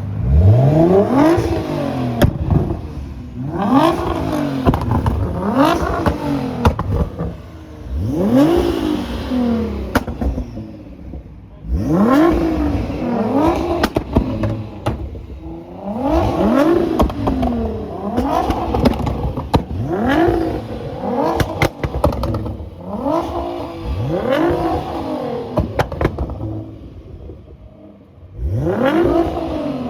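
Performance car engine revved hard over and over, its pitch climbing and dropping back more than a dozen times, with sharp exhaust pops and crackles between the revs.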